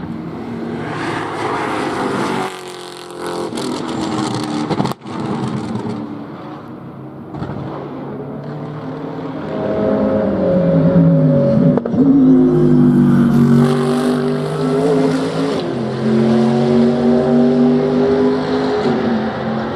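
Race car engines at trackside, louder in the second half. About ten seconds in, the engine pitch falls as a car slows; it then climbs again in steady steps as a car accelerates through the gears.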